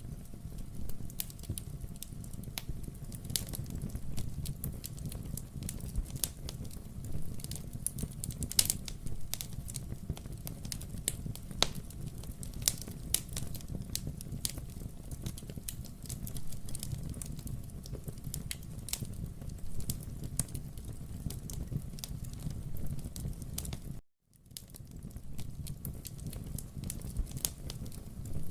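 Wood fire crackling in a fireplace, with many irregular sharp pops and snaps over a steady low rumble of burning logs. Near the end the sound cuts out for a moment, then fades back in.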